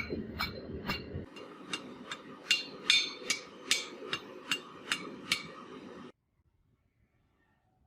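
Hammer blows on metal: a steady run of about ten ringing strikes, roughly two and a half a second, over a low rumble that stops about a second in. The sound cuts off suddenly near the end.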